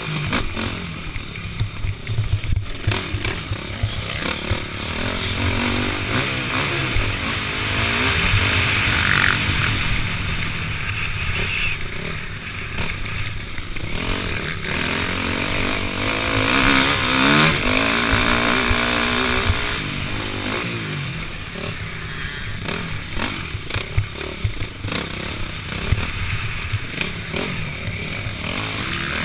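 KTM 505 four-stroke single-cylinder dirt bike engine under racing load, its pitch rising and falling again and again with the throttle and gear changes.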